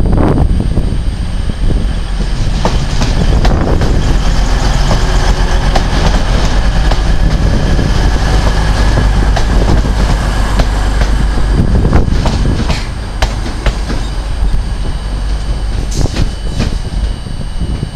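Class 185 diesel multiple unit running past at low speed: a steady low engine and running rumble, with wheels clicking over rail joints and points and a faint steady high whine. About twelve seconds in, the rumble drops somewhat.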